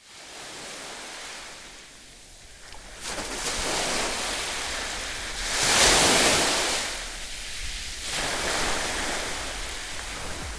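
Ocean surf washing onto a beach, swelling and fading as the waves come in, with the loudest wash about six seconds in.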